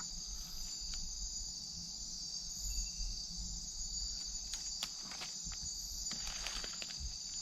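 Steady high-pitched chorus of night insects in the rainforest, a continuous trilling hum, with a few faint clicks and rustles in the second half.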